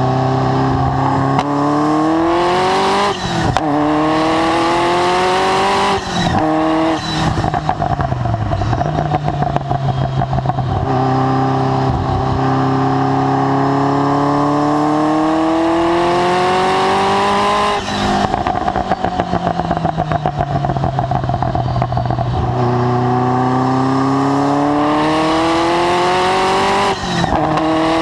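Ferrari F40's twin-turbo V8 with a Tubi Style exhaust driven hard, revs climbing and dropping sharply at each upshift. Twice the driver lifts off and the revs fall with a rough, popping note on the overrun, then it pulls hard again.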